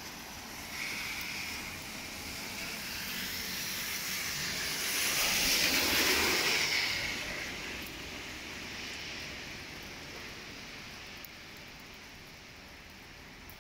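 Steady hiss of heavy rain, with a passing vehicle's tyres on the wet road rising to a peak about six seconds in and fading away again.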